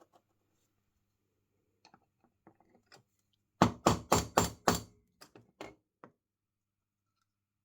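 A quick run of about six loud, sharp knocks, like hammer taps on metal, coming about four a second. A few fainter taps follow, with scattered light clicks before the run.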